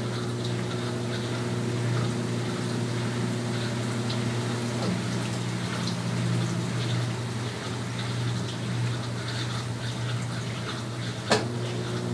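Brastemp 12 kg washing machine mid-cycle: water moving inside it over a steady pump or motor hum, with one sharp click about eleven seconds in.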